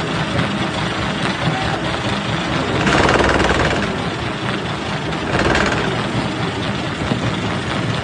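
Jaw crusher running and breaking rock: a continuous heavy grinding rattle with a rapid low pulse, swelling louder twice, about three seconds in and again a little past five seconds.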